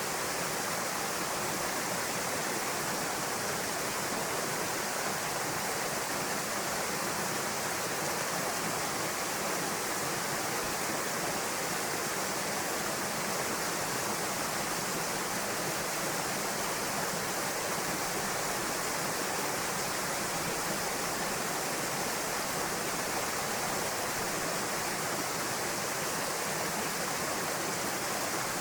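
Waterfall pouring steadily into a rocky pool: a constant, even rush of falling water.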